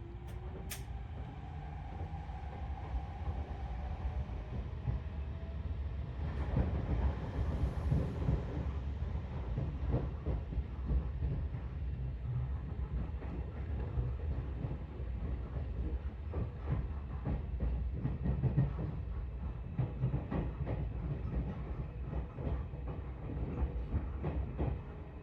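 Seibu 4000 series electric train rolling slowly, heard from inside the car: a steady low rumble with repeated clacks and knocks as the wheels cross rail joints and points. A rising motor whine sounds in the first few seconds.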